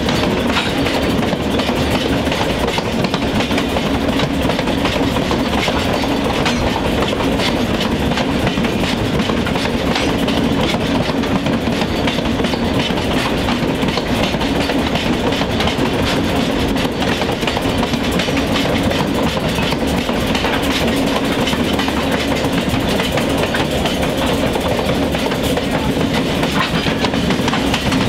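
Diesel-hauled train running steadily: a constant engine drone under a stream of wheel clicks on the rails.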